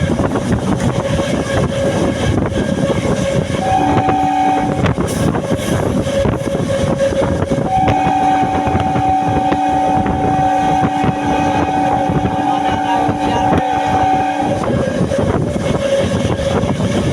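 Local train running with a steady loud noise, its two-tone horn sounding a short blast about four seconds in, then a long held blast from about eight to fourteen seconds.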